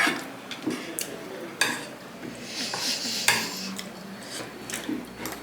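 Cutlery and dishes clinking during a meal: a few sharp clicks over quieter handling and clatter.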